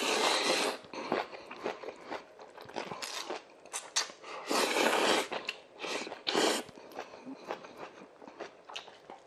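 Close-miked eating sounds: a mouthful of Chapagetti black-bean noodles and chunks of beef sirloin being chewed, in irregular bursts with short pauses.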